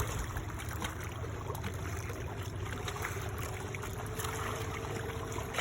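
Seawater lapping and trickling, with small splashy clicks over a steady low rumble; a faint steady hum comes in near the end.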